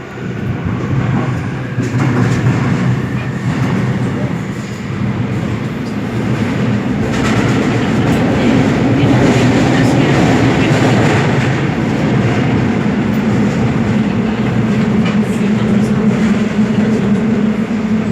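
Seoul Metro Line 7 subway train pulling away and running on the line. The traction motors' hum rises slowly in pitch as it gains speed, and the wheel and rail noise grows louder over the first couple of seconds.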